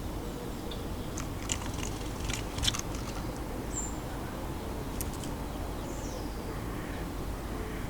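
Sharp taps and clicks of birds pecking at a garden bird feeder, a quick run of them with the loudest near the middle and a few more later. Small garden birds give a brief high chirp and a short falling call, over a steady low background rumble.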